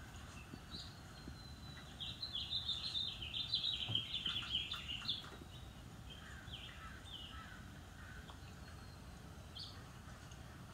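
Songbirds chirping, with one bird giving a fast run of rapid high notes about two seconds in that lasts some three seconds and is the loudest sound; scattered short chirps come before and after over a low steady background hum.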